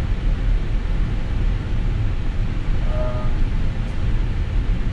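Steady cockpit background noise of a parked Airbus A320neo: a low rumble under an even rush of air from the ventilation. A short faint tone sounds about three seconds in.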